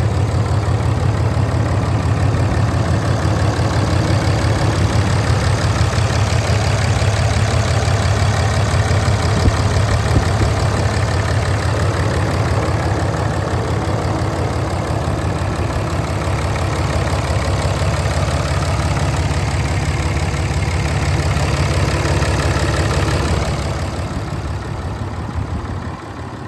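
2015 Ram 2500 pickup's engine idling steadily, with an even low rumble; the sound drops in level near the end.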